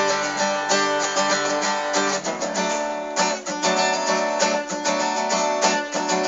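Acoustic guitar strummed in a steady rhythm, chords ringing between the strokes, as the instrumental lead-in before the verse.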